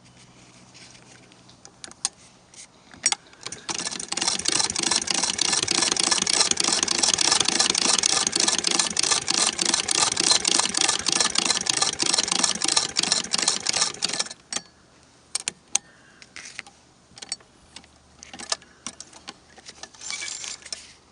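Antique Singer 28K sewing machine running for about ten seconds, a fast, even mechanical clatter that starts and stops abruptly, with scattered single clicks and knocks before and after.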